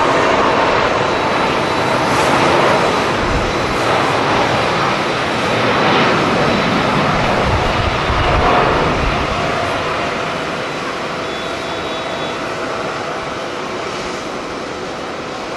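Jet airliner's engines, a loud steady rush that slowly fades after about nine seconds, with bursts of low rumble from wind on the microphone.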